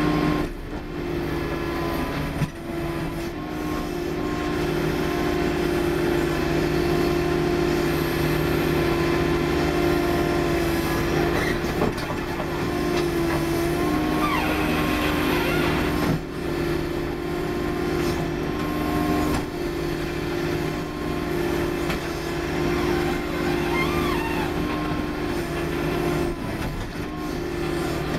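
Case 440 skid steer running steadily at high revs while its hydraulic breaker hammer pounds asphalt, a rapid continuous hammering beneath the engine note, with brief dips about 2.5 and 16 seconds in.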